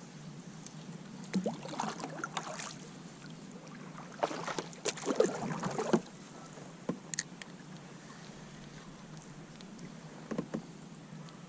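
Irregular knocks, clicks and rustles of gear being handled in a kayak, in a few short clusters, the densest and loudest about halfway through.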